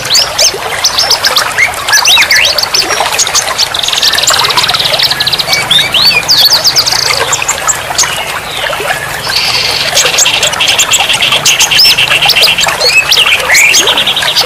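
Many songbirds singing and calling at once: a dense tangle of chirps, whistled sweeps and squawks, broken by rapid buzzing trills, a long one midway through and another starting near the end.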